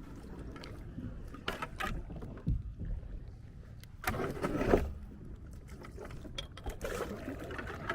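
Kayak hull knocking and scraping against a log and tree branches, with a few sharp knocks and one longer, louder scrape about four seconds in.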